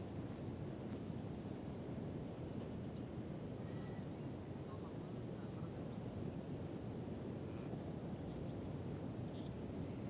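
Birds chirping over and over in short, high, rising notes, over a steady low rumble of outdoor noise.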